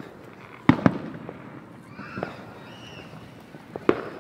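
Fireworks going off around the neighbourhood: a quick double bang about a second in, a single sharp bang near the end, and smaller pops between.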